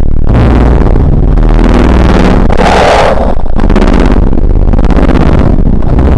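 Loud, heavily distorted low rumble with a steady deep drone underneath and a harsher, noisier swell about three seconds in.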